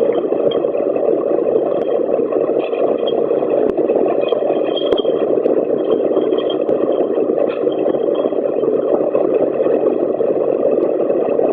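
Ultrasonic bottle washing machine running: a steady mechanical whirr with faint clatter and occasional small clicks.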